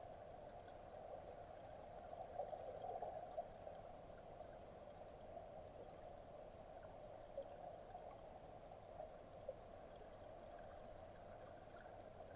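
Faint, steady gurgling of a mountain stream, a little louder a couple of seconds in, with a few soft ticks.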